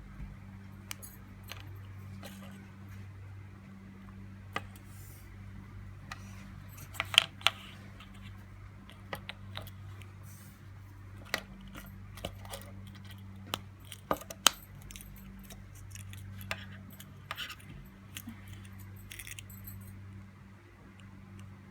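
Irregular small clicks and taps of plastic and metal as a car key fob remote is handled during a coin-cell battery change, with the sharpest snaps about a third and two-thirds of the way in. A steady low hum runs underneath.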